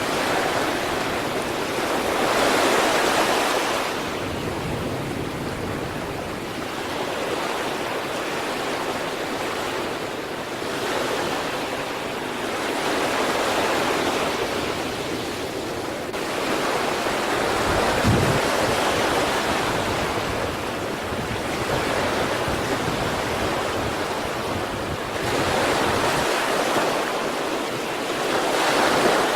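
Sea waves breaking on the shore, a continuous wash of surf that swells and falls back every few seconds. One short low thud comes about two-thirds of the way through.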